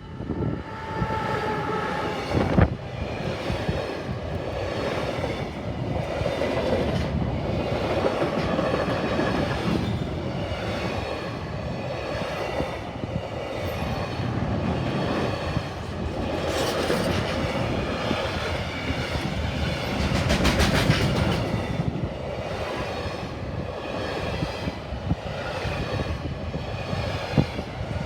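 Container freight train rolling past at a level crossing: a steady rumble of wagons with wheels clacking rhythmically over rail joints, and a sharper knock about two and a half seconds in.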